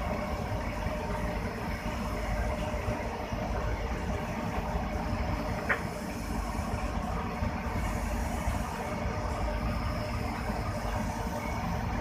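Diesel locomotive engine idling steadily, heard from aboard the locomotive, with a single sharp click a little before the middle.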